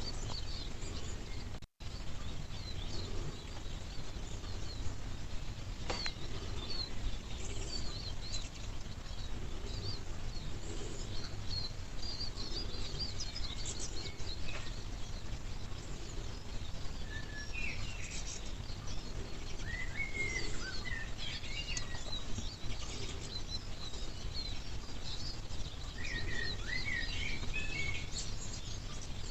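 Wild birds chirping and singing, with many short high calls scattered throughout and a few louder clusters of twittering past the middle and near the end. Underneath runs a steady low background noise.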